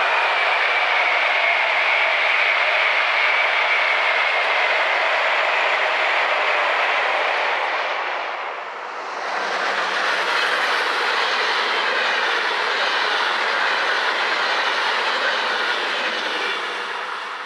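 A train passing, a steady rolling noise with a high whine in the first few seconds. The sound dips briefly about halfway through, then picks up again.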